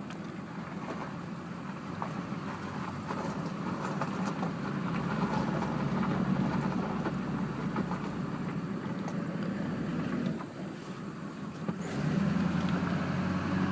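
2001 HD2500 pickup's 6.6-litre Duramax V8 turbo diesel running while the truck drives down the road, heard from inside the cab with tyre and road noise. The steady engine drone grows louder over the first few seconds, dips briefly about ten seconds in, then picks back up.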